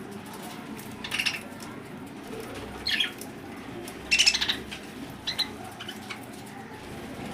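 Pet lovebirds giving short, high calls, four of them, the loudest about four seconds in.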